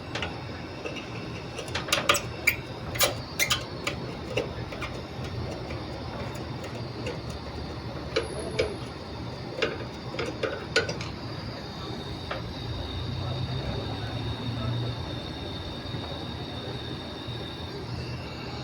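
Hard metal objects clinking and knocking, in two clusters of several sharp strikes, over a steady background hum.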